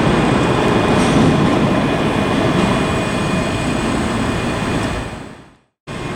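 ScotRail Class 385 electric multiple unit pulling out of the station, a steady loud rumble of wheels and running gear with a faint steady motor whine. It fades away and cuts off a little past five seconds in.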